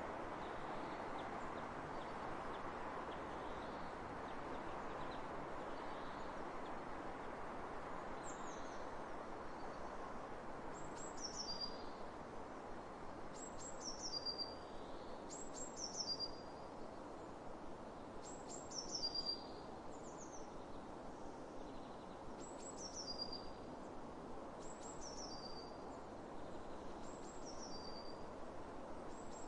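Steady wind over open fields, with a small bird repeating a short, high call that drops in pitch, about once every one to two seconds from about a quarter of the way in.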